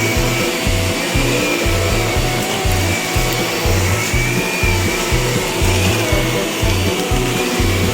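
Music with a steady bass beat over the steady rushing hum of a vacuum cleaner running.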